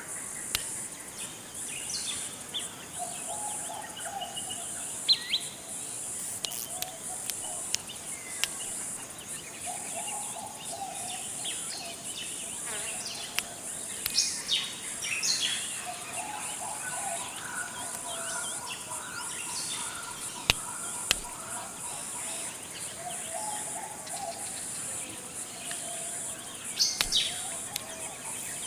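Forest ambience: a steady high-pitched insect drone, with a bird's low call repeated every few seconds, scattered higher bird chirps and a few sharp clicks.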